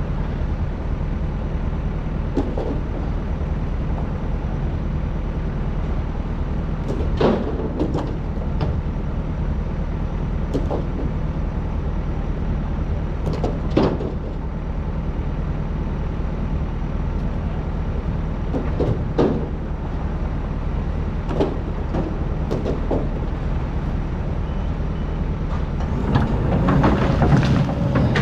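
Excavator's diesel engine running steadily, with scattered sharp knocks as the bucket digs into hard-packed old sand. Near the end the engine grows louder and rougher, as if under more load.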